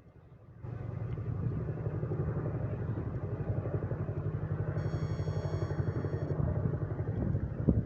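Boeing CH-47 Chinook tandem-rotor helicopter passing overhead: a steady low, rapid thudding of the rotor blades that starts abruptly under a second in. A thin high whine is heard briefly near the middle.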